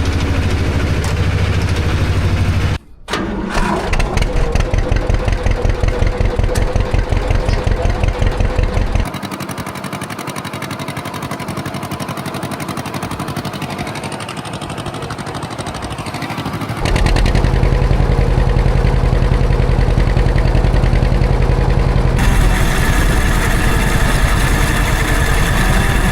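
Vintage John Deere tractor engine running, heard in several cut-together clips. In one stretch it pulses evenly at about two to three beats a second.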